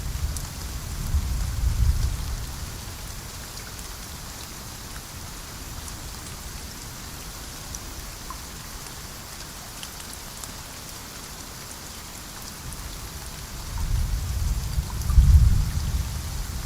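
Steady heavy rain falling in a rainforest, with thunder rumbling twice: once about two seconds in, and again louder near the end.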